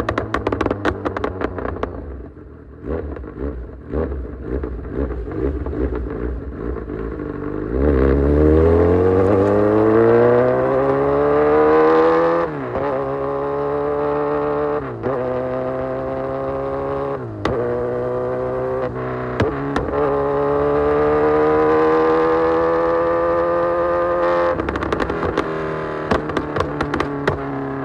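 Kawasaki Z900's inline-four through an Austin Racing full exhaust: burbling and crackling at low revs, then about eight seconds in it pulls hard, revs climbing through four quick upshifts and one long final pull. Near the end the throttle closes and the exhaust crackles and pops on the overrun.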